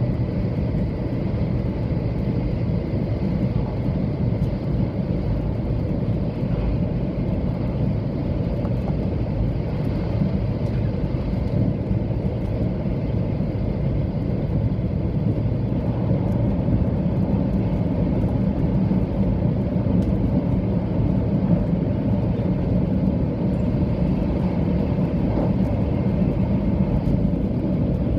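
Steady running noise inside a 700 series Shinkansen passenger car: an even low rumble of wheels on track, with a faint high tone near the start.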